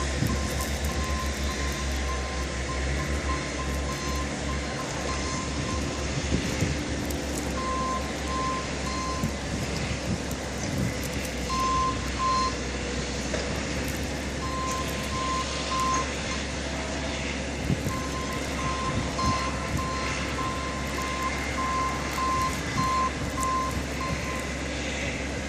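A vehicle's backup alarm beeping in runs of evenly spaced single-pitch beeps, about two a second, with pauses between the runs, over the steady low rumble of a truck engine.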